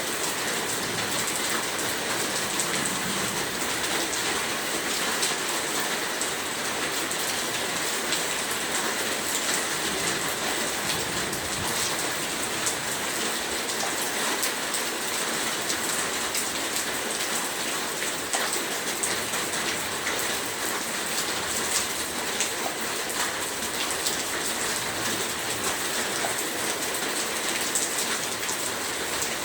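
Heavy rain falling steadily, a dense hiss of drops with many small individual drop ticks.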